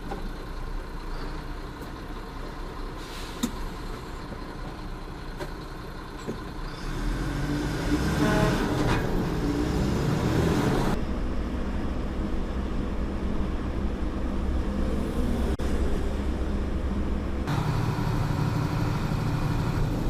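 A truck's engine and road noise while driving, getting louder about seven seconds in, with the engine note shifting twice later on.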